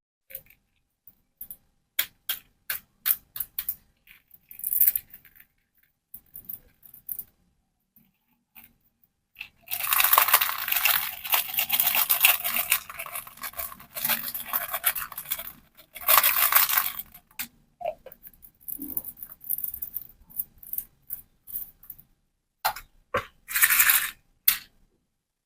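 Plastic candy packaging being handled and opened: scattered small clicks and taps, then about six seconds of dense crinkling and tearing of plastic in the middle, with shorter crinkles near the end.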